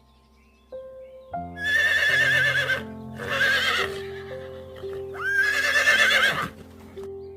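A horse whinnying three times, each call wavering in pitch, over background music.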